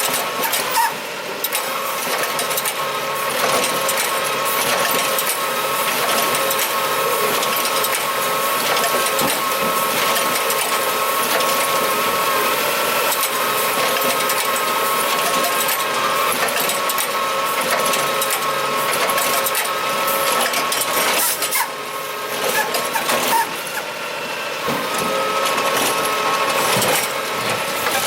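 Curbtender automated side-loader garbage truck running, with a steady high whine over the engine and mechanical clatter. Around three-quarters of the way in the whine drops away for a few seconds, with a few sharp knocks, then returns.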